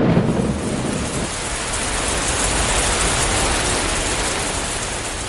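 Steady hiss of rain, a recorded rain effect on the song's outro, beginning to fade near the end.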